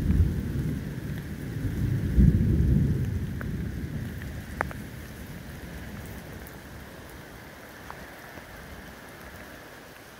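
Rain falling steadily on a wet road, with a few louder single drips. A deep rumble, loudest in the first three seconds, fades out by about the fourth second.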